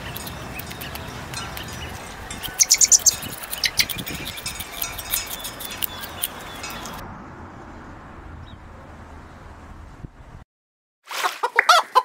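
Outdoor ambience with birds chirping in quick high twitters for several seconds, fading to a faint steady hiss. After a brief silence near the end, a hen clucks.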